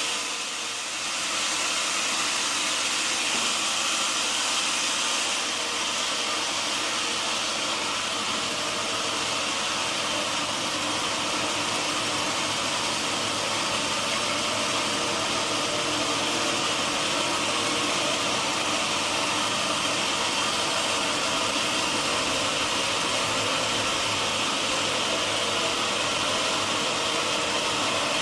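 Sawmill machinery running with a steady, even noise and a brief dip in level about a second in.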